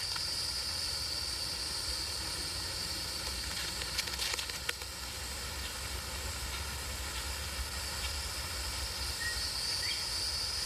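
Steady hiss with a thin high whine and a low hum, the background noise of an old film soundtrack, with a few faint clicks about four seconds in and two short faint chirps near the end.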